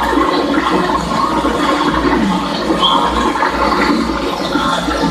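Steady rushing and splashing water.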